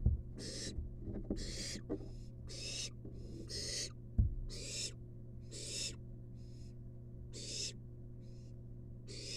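Barn owl nestling giving a rapid series of harsh, hissing begging calls, each about half a second long, growing fainter after about six seconds. Two low knocks, at the start and about four seconds in, and a steady low electrical hum lie under the calls.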